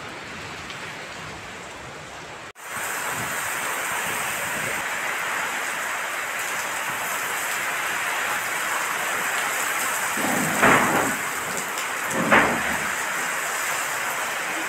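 Heavy rain falling in a strong wind: a steady hiss of rain. About two and a half seconds in the sound breaks off for an instant and comes back louder. Near the end two short, louder bursts stand out.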